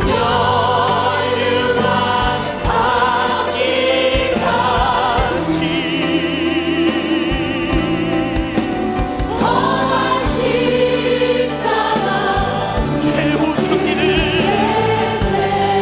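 Congregation and choir singing a Korean hymn with vibrato over organ or keyboard accompaniment and a steady drum beat.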